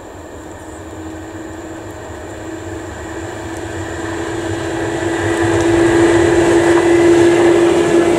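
Approaching train: a steady hum and rail noise grow steadily louder as it nears.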